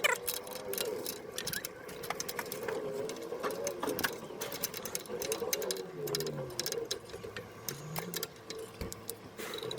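Irregular metal clicks and rattles of hand tools and carburetor parts being fitted back on a riding mower. A high, wavering whine runs under the clicks for the first several seconds, and a lower gliding whine follows near the end.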